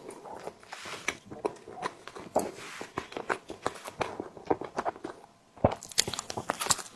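Close-miked chewing of a tiger skin dessert: a dense run of wet, sticky mouth clicks and smacks with short soft swells between them. There is a brief lull about five seconds in, followed by a cluster of louder clicks.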